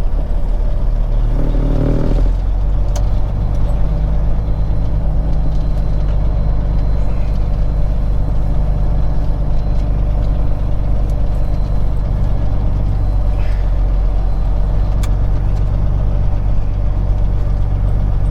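Peterbilt 379 semi truck's diesel engine running steadily at low speed, a deep, even drone, with a brief clatter about two seconds in.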